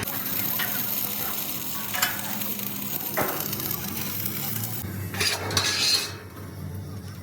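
Steady crackling hiss of electric arc welding on steel, with a few sharp metallic knocks.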